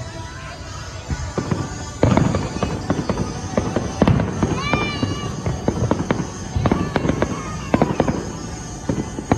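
Fireworks going off: a rapid, irregular run of bangs and crackles, with the loudest bangs about two and four seconds in.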